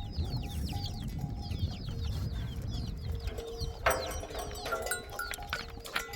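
Birds chirping: many quick, falling chirps in a busy stream, with a low rumble beneath and a couple of sharp clatters about four and six seconds in.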